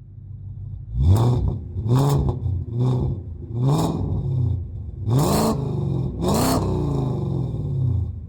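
Straight-piped 4.4-litre V8 of a 2002 BMW 540i, idling, then revved in six sharp throttle blips that climb and fall back, the last one falling away slowly to idle near the end.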